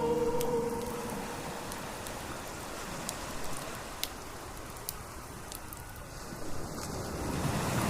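Wood fire crackling: a steady hiss with scattered sharp pops and snaps. Music fades out at the very start.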